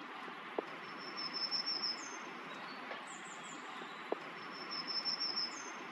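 A small songbird singing a high, thin trill that ends in a short down-slurred note, heard twice over a faint outdoor hiss, with a couple of small clicks.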